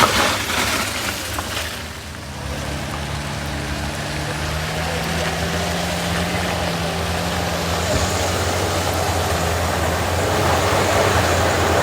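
Large truck's engine running steadily with a low hum, on a steep, slippery climb.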